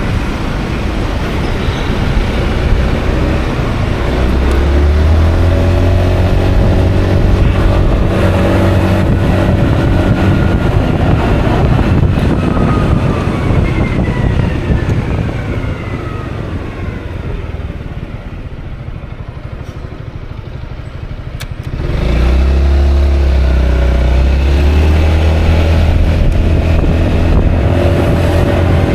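Honda Forza 350 single-cylinder scooter being ridden, heard over heavy wind noise on the action-camera microphone. The engine climbs in pitch, then eases off and falls away as the scooter slows, and about 22 seconds in it opens up again sharply.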